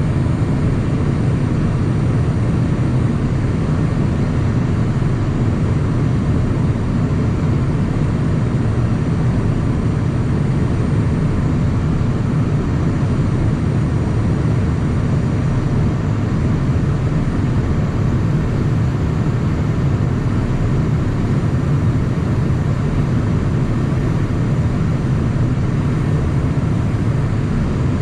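Steady cockpit noise of a Cessna Citation Mustang light jet: a constant low rumble of airflow and its twin turbofan engines, with faint thin high tones above it.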